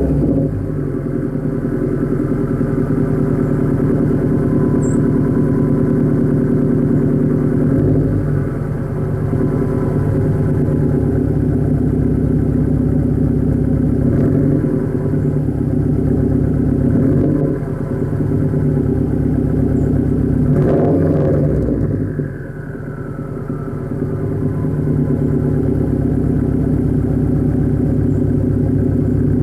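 2009 Subaru WRX's turbocharged flat-four idling just after a cold start, through a 3-inch Nameless Performance quad-tip cat-back exhaust with muffler delete. The idle runs steady with small wavers, dipping in level about twenty-two seconds in and then coming back up.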